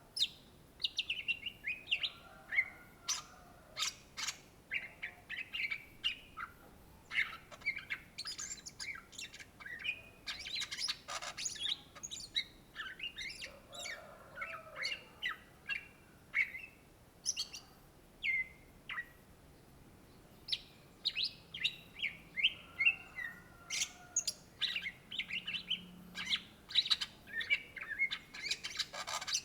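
Greater green leafbird (cucak ijo) singing a long, fast song of varied chirps, trills and sharp notes, with brief pauses.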